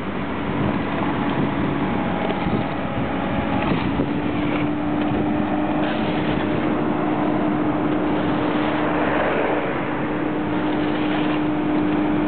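Slurry seal machine running steadily, a continuous engine and machinery noise with one constant hum held throughout.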